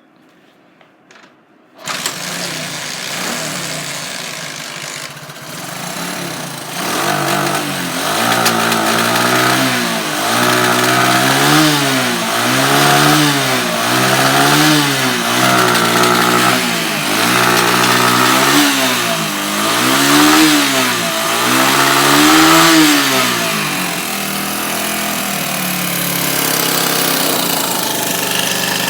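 1981 Honda Ihatovo trail bike's single-cylinder four-stroke engine starting about two seconds in and idling. It is then revved in about ten short blips, each rising and falling, before settling back to idle near the end.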